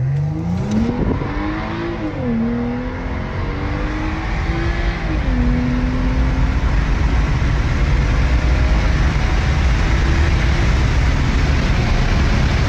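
BMW 335i's turbocharged straight-six pulling hard under full acceleration, its note rising steeply. It drops at a gear change about two seconds in and again about five seconds in. After that the engine settles to a steady note under a growing, steady rush of road and wind noise at speed. This is the car's first hard pull after the build.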